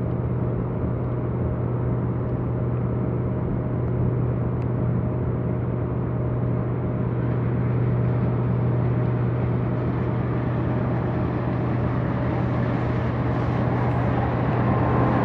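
Diesel train engine running with a steady low hum, slowly growing louder.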